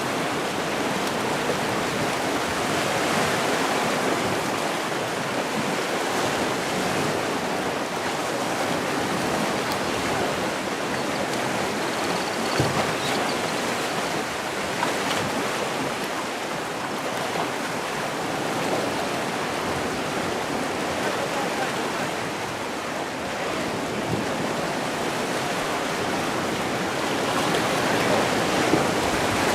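Sea surf: waves washing continuously in a steady rushing hiss with gentle swells, growing a little louder near the end.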